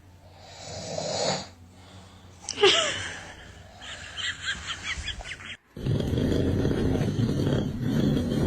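A person snoring loudly: rough, rasping snores, the longest and loudest one starting just before the six-second mark and running on to the end. Between the snores come a short high-pitched gliding sound and a quick run of rapid chirp-like pulses.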